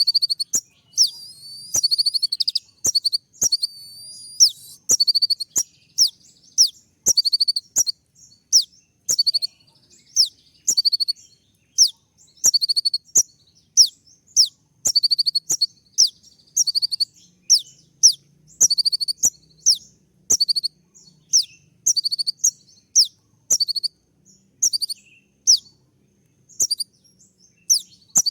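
Kolibri ninja sunbird calling in a rapid run of sharp, high chirps, each a quick downward sweep, about two a second, with a warbling trill between them about a second in. These are the sharp 'tembakan' calls that keepers play to provoke other konin into answering.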